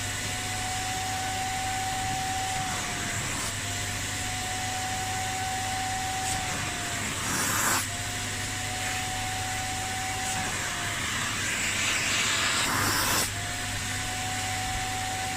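Kärcher Puzzi 10/1 spray extractor running, its vacuum motor giving a steady whine that dips briefly in pitch every few seconds as the nozzle is drawn over the seat fabric. Short hissing bursts of spray and suction come twice, about halfway through and again a few seconds later.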